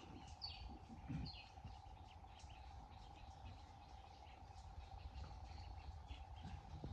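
Faint bird chirps: a few short high calls that slide downward in the first second and a half, over a steady faint hum and quiet rural background.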